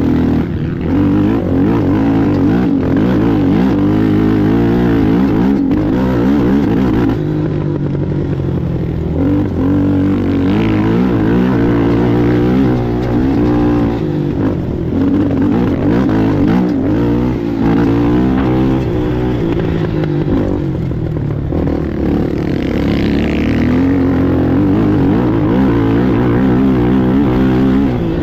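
Racing ATV engine running hard, its pitch rising and falling as the throttle is worked, with brief dips about seven and twenty-one seconds in.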